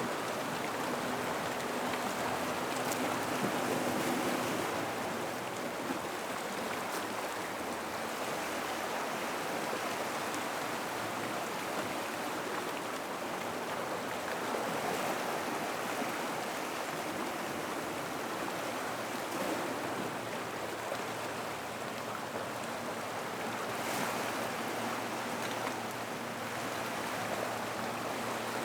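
Gentle ocean water washing and trickling around a rock pool, a steady wash that swells and eases slowly, with a faint low hum underneath.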